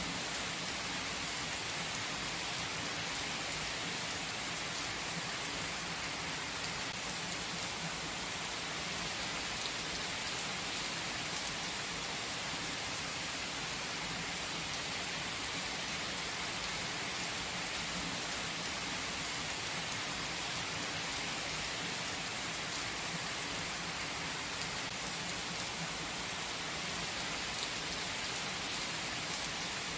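Steady rain falling: an even, unbroken hiss of drops that holds the same level throughout.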